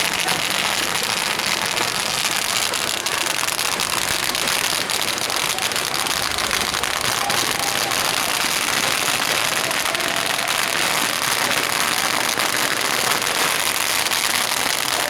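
A large bonfire burning with a steady dense crackling and popping.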